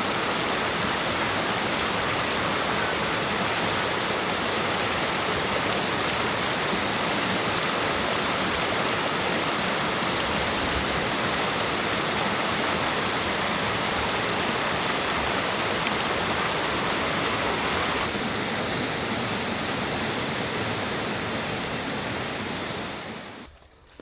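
Steady rushing of flowing water. It eases slightly about three-quarters of the way through and fades out near the end.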